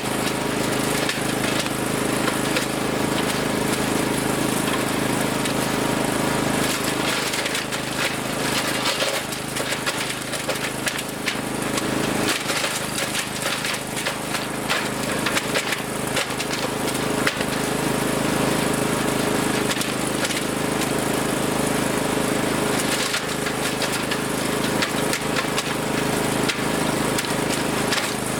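Wood chipper's engine running steadily under throttle, with bursts of cracking and clattering as branches are fed in and chewed up: about a quarter of the way in and again near the end.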